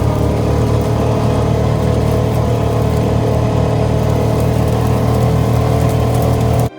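ATV engine running at a steady speed. It cuts off abruptly near the end.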